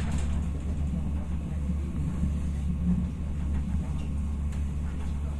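Interior running noise of a CityElefant (ČD class 471) double-deck electric train in motion: a steady low rumble and drone from the wheels and running gear, with a sharp click at the very start and a few faint clicks later on.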